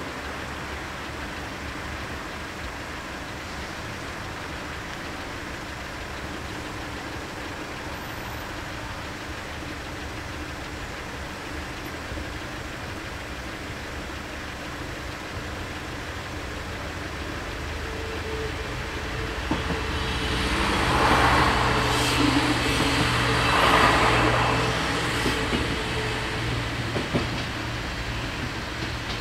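A passenger train passing over a level crossing: its noise swells, peaks twice over a few seconds about two-thirds of the way through, then fades. Before it there is a steady low background hum.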